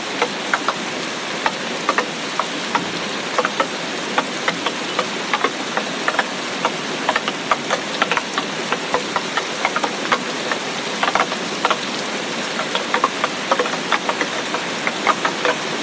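Heavy rain of a tropical storm falling steadily, with many sharp, irregular drop taps close by over the constant hiss.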